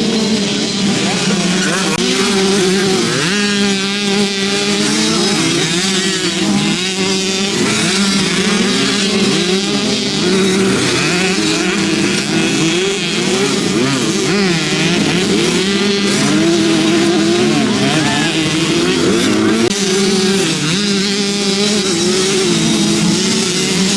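Several motocross bike engines revving hard and easing off, their pitches rising and falling over one another without a break.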